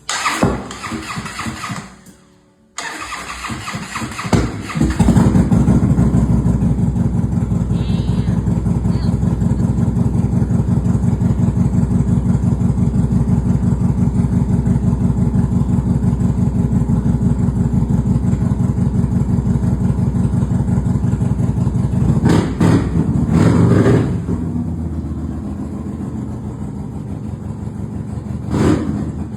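Harley-Davidson V-twin motorcycle, with a rebuilt Screamin' Eagle motor, being started: it catches a few seconds in and settles into a steady pulsing idle. It is revved in short blips twice near the end.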